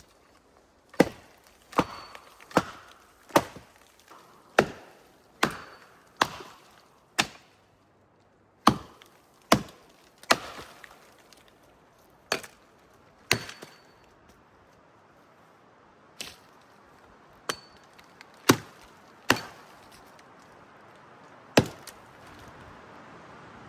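Axe chopping wood: about eighteen sharp strikes, roughly one a second, in short runs broken by pauses of one to two seconds.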